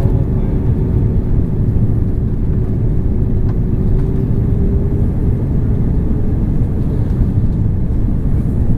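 Steady cabin noise inside an Airbus A330-300 airliner on approach to land: engine and airflow noise, with a faint steady hum that fades out about halfway through.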